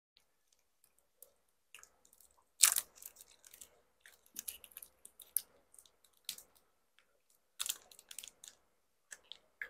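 Close-up chewing and biting of bánh ít lá gai, a soft glutinous rice cake: irregular wet mouth clicks and crackles, loudest in bursts about two and a half seconds in and again near eight seconds.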